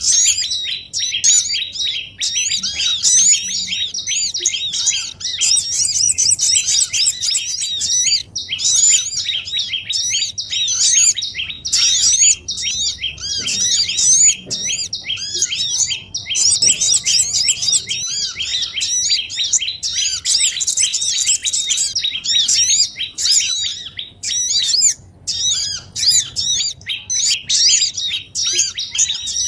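Dense, unbroken chattering of small songbirds: rapid high chirps, many a second, from what sounds like a noisy flock. It is a bird-trapping lure recording made to call down small birds such as sogon.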